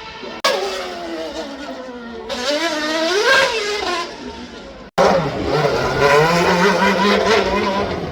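Performance car engines on a hill climb, in two edited clips. In the first, an engine note falls as a car goes past, then revs up and back down. After a sudden cut about five seconds in, a second car's engine runs loud at fairly steady revs that climb slightly.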